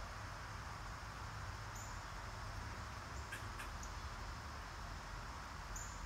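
Quiet backyard ambience, a steady faint hiss and low rumble, with a few short high chirps from small birds.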